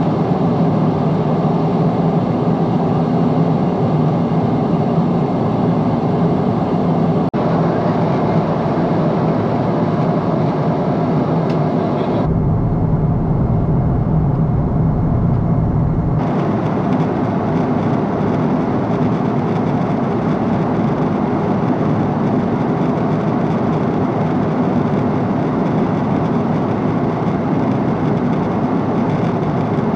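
Steady cabin roar of a Boeing 777-300 airliner in flight, engine and airflow noise heard inside the cabin. For about four seconds near the middle the sound turns duller and lower.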